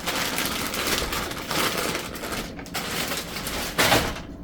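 Plastic grocery packaging rustling and crinkling as items are handled, with a louder crinkle near the end.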